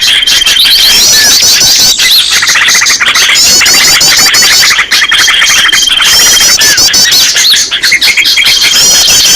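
Loud, dense chatter of many small birds calling at once: overlapping chirps, quick trills and short rising notes, with a thin steady whistle that comes back a few times. This is a bird-lure recording of a noisy flock of small birds, used to draw small birds in for trapping.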